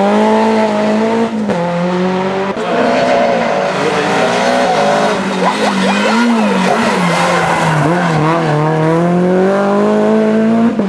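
Rally car engine running hard at racing pace, its pitch climbing and dropping through gear changes and lifts, with a flurry of quick rev changes and tyre squeal about halfway through.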